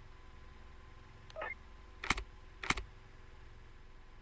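Two sharp clicks about half a second apart, preceded by a fainter tick and brief blip, over a low steady hum.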